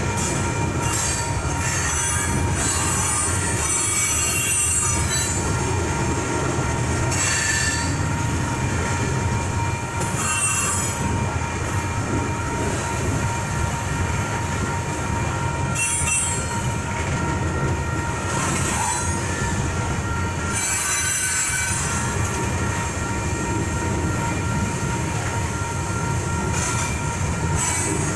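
Fully loaded coal cars of a freight train rolling steadily past: a continuous heavy rumble of wheels on rail, broken several times by short bursts of high-pitched wheel squeal. A grade-crossing electronic bell rings steadily throughout.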